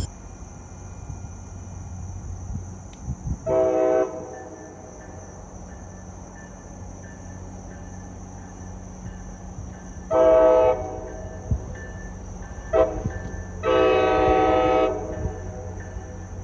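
MBTA commuter rail train's multi-chime air horn sounding in blasts over the steady rumble of the train: a short blast a few seconds in, another about ten seconds in, then a brief toot and a longer blast near the end.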